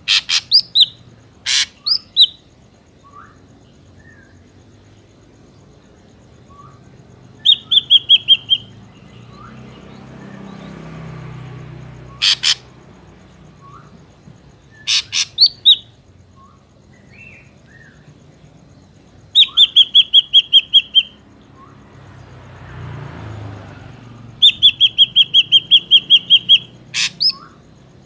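Ashy drongo calls: quick runs of evenly repeated notes, about eight to ten a second, broken up by single sharp clicking notes and short pauses.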